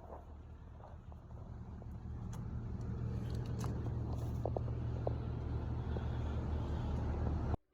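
A vehicle engine running with a steady low rumble that grows louder, then cuts off abruptly near the end. A few short squeaks come through midway.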